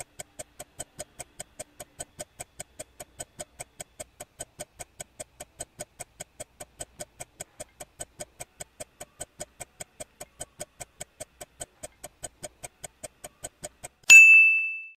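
Quiz countdown timer ticking steadily, about four ticks a second, then a single bright chime near the end, marking the answer reveal.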